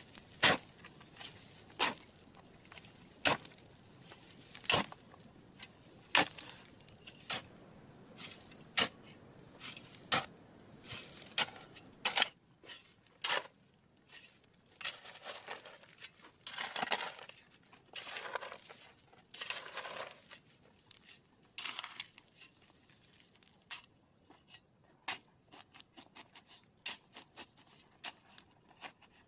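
Sharp knocks repeating about every second and a half, then a stretch of longer scraping sounds, then quicker, fainter irregular clicks.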